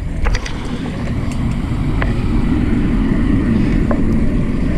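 Wind buffeting the camera microphone and tyre rumble from a fixed-gear bike being ridden, a steady low roar with a few sharp clicks.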